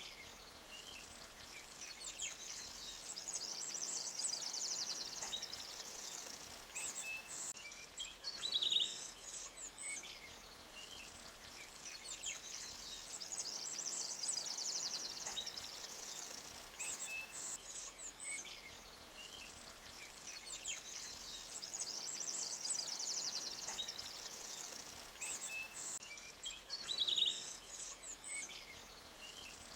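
Forest ambience of birds chirping and trilling over a faint steady background hiss, the same high trilling phrase coming back about every nine seconds, with a short louder chirp twice.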